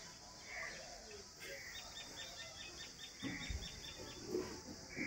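A bird calling a quick run of about a dozen short, high, falling notes, about six a second, over a steady high hiss of outdoor background, with a single dull thump near the middle.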